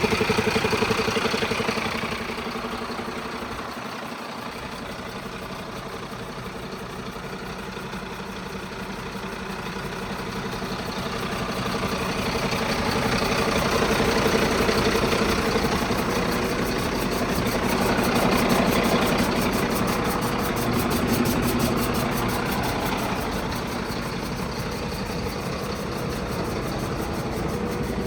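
Mercedes-Benz Atego 1524 street-sweeper truck with its diesel running at a steady idle hum. The sound drops shortly after the start, then grows louder and fainter twice.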